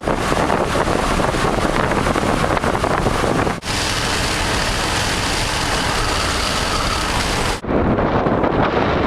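Strong wind blowing hard across the microphone, a loud, even rushing noise. It breaks off abruptly about three and a half seconds in and again near the end as the shots change.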